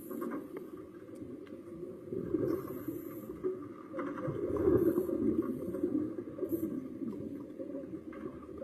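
Muffled underwater noise as heard through a camera housing, a steady low rumble that swells about halfway through, with short high hisses every second or two.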